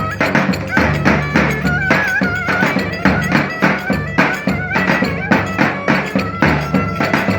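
Turkish folk dance music played live by a band: an ornamented, wavering melody over fast, steady drum beats.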